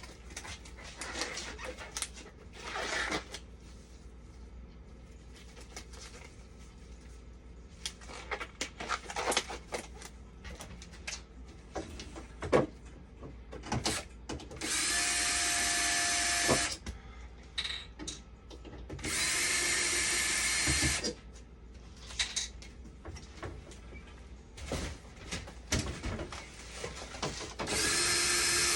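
A small power drill or driver running in three bursts of about two seconds each, with clicks and knocks of tool handling between them.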